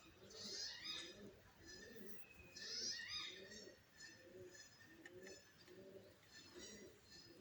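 Doves cooing faintly in a steady run of low, repeated notes, with small birds chirping over them in short high bursts, the loudest about half a second in and near the middle.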